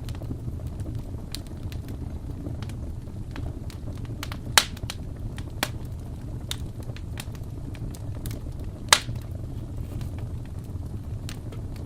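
Wood fire in a fireplace crackling: scattered sharp pops and snaps over a steady low rumble, with two louder pops about four and a half and nine seconds in.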